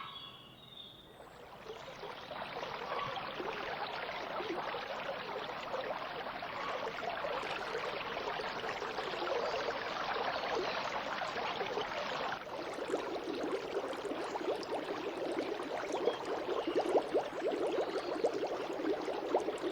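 Aquarium water bubbling and gurgling steadily. It starts about a second in and turns fuller and more bubbly a little past the middle.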